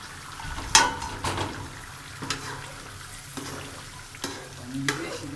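A metal utensil clinks against a cooking pot several times over a steady hiss, the loudest clank about a second in.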